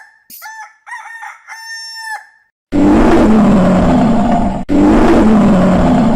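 A rooster crows once, a single cock-a-doodle-doo. About a second later come two long, loud, rough roars, one straight after the other.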